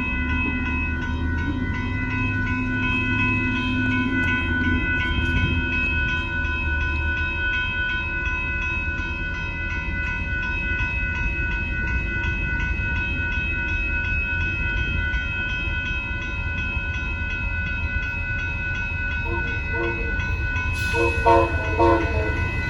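Amtrak Texas Eagle passenger train passing through a road grade crossing. The diesel locomotive's low rumble and its horn are heard, then the cars roll by, while the crossing bell rings steadily throughout.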